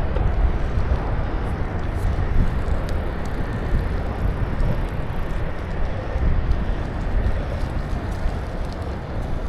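Steady wind noise rushing over the microphone of a camera on a moving bicycle, heaviest in the low end, with faint light ticks from the ride.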